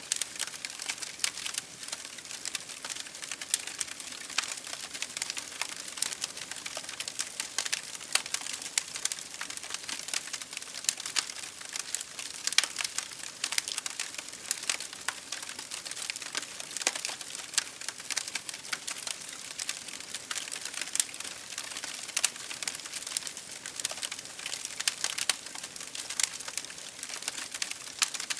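Wood fire burning in an open fireplace, crackling and popping constantly over a steady hiss of flames.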